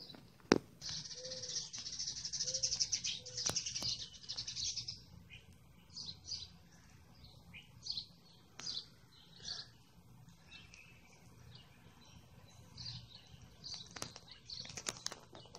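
Songbirds chirping: a dense, rapid trill for the first few seconds, then scattered short chirps. A few sharp clicks are also heard.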